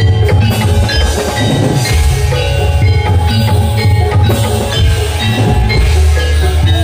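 Javanese gamelan music for a jathilan dance: struck metal mallet instruments playing interlocking melodic notes over drums and a deep, steady bass.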